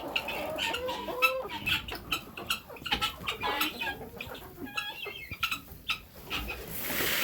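A flock of chickens clucking, many birds calling over one another in short, overlapping clucks. A brief burst of noise comes near the end.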